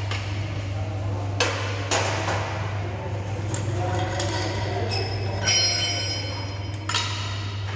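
Hammer-like knocks on metal, with one ringing metallic clank about five and a half seconds in, over a steady low hum.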